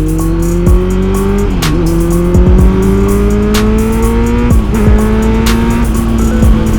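Kawasaki Z900's inline-four engine accelerating through the gears: its pitch climbs steadily, drops with an upshift about a second and a half in and again about four and a half seconds in, then holds nearly level near the end. A sharp click sounds about every two seconds.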